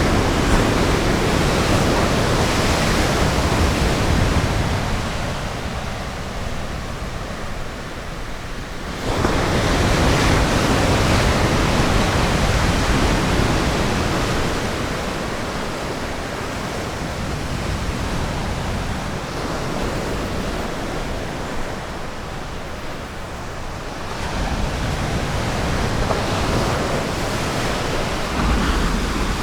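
Ocean surf washing onto a beach: a continuous roar of breaking waves that eases off, then surges as a wave breaks about nine seconds in, and builds again near the end.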